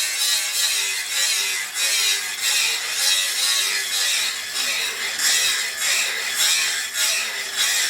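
Hand tool scraping back and forth in steady, even strokes, about two a second, like work on wood or metal while finishing an axe.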